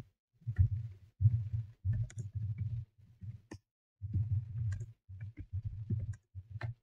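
Typing on a computer keyboard: irregular runs of keystroke clicks separated by short pauses.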